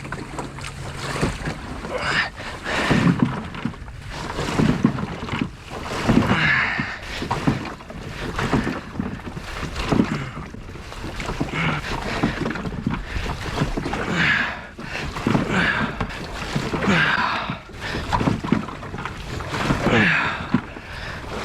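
A jon boat being hauled by hand through sawgrass and shallow water in repeated heaves, about one every one and a half to two seconds, each heave a surge of rustling and sloshing with straining breaths.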